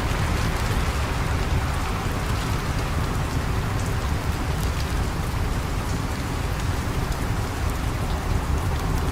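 Steady rain: a dense, even hiss with a deep rumble underneath and scattered faint ticks.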